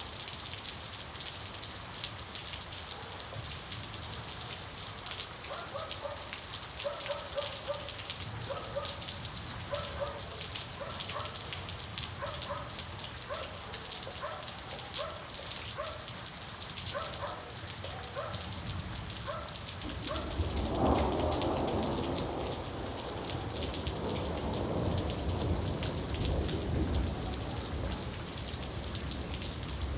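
Steady rain falling, with a long roll of thunder rumbling in about two-thirds of the way through and dying away over several seconds. Earlier, a faint short call repeats about three times every two seconds for a while.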